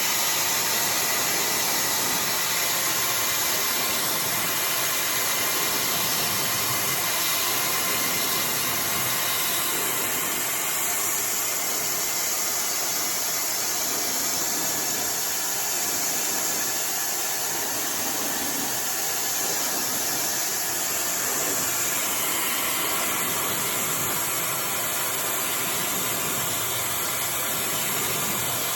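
iDryer AI Pro Style hair dryer running steadily, a constant rushing hiss of blown air on hair. The tone of the hiss shifts slightly now and then as the dryer moves.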